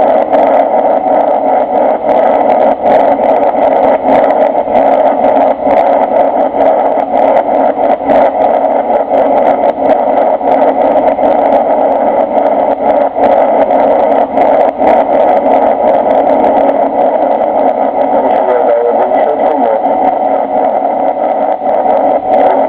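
Boeing 747-300 engine and airflow noise heard inside the passenger cabin, a loud steady drone with many small rattles and clicks.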